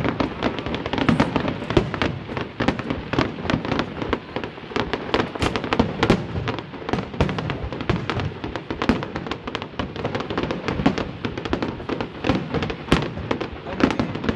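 Fireworks going off in rapid succession: a dense, unbroken run of overlapping bangs and crackles.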